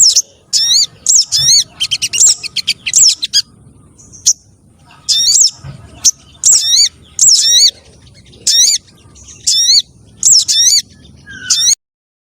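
Recorded lure calls of spiderhunters and sunbirds (sogok ontong trotol and related sogon): short, sharp chirps repeated in quick runs with brief pauses. The calls cut off abruptly near the end.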